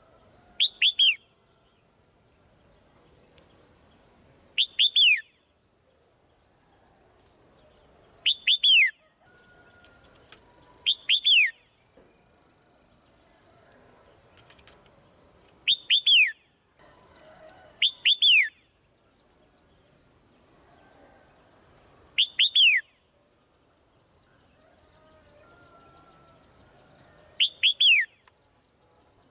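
Swallow calling: short bursts of two or three quick, falling chirps, repeated eight times a few seconds apart, over a steady high-pitched hiss.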